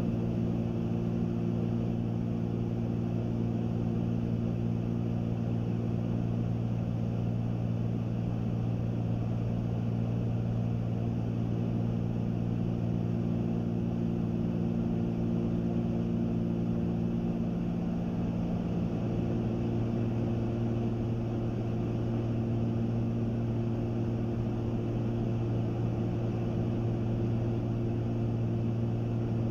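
Cabin drone of a Cessna 310's twin six-cylinder piston engines and propellers, throttled back to about 15 inches of manifold pressure for the descent. A steady hum whose upper tones thin out for a while and come back about two-thirds of the way through.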